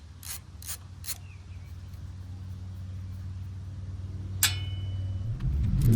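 A few clicks from a socket ratchet working on the valve cover bolts of a Craftsman riding mower engine, then a steady low hum that slowly grows louder. A single sharp metallic clink comes about four and a half seconds in, and a louder rumble near the end.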